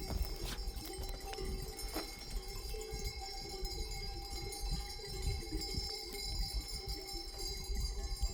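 Sheep bells ringing in a grazing flock, several bell tones overlapping and ringing on, over a low rumble.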